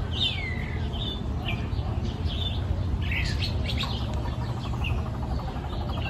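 Several birds chirping with short high tweets, one call sliding down in pitch near the start, over a steady low background hum.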